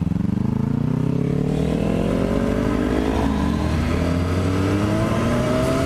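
Motorcycle engine accelerating: the revs climb, drop once with an upshift about three seconds in, then climb again, with wind noise building with speed.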